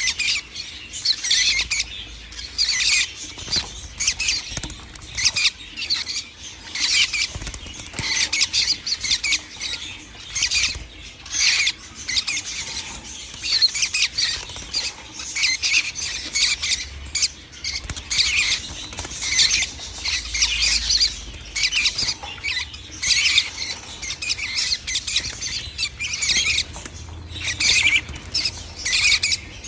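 Baby lovebirds calling: a continuous flurry of rapid, high squeaky chirps with hardly a pause.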